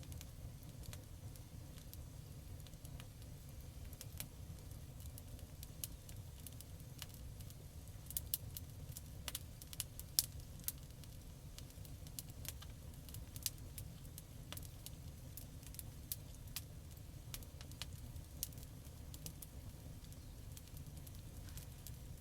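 Wood campfire crackling: scattered sharp pops over a steady low rumble of the burning fire, with a denser run of pops about a third of the way in.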